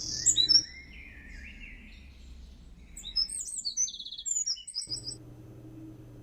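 Wren singing: high, rapid trills and chirps, loudest at the start, fainter sliding notes, then a second run of quick trills about three seconds in.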